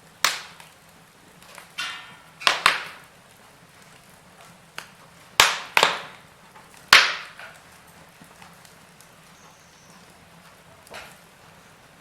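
Wood fire crackling in a fireplace: sharp pops every second or two, some in quick pairs, with a short hiss just before a pair of pops about two seconds in, over a faint low background hiss.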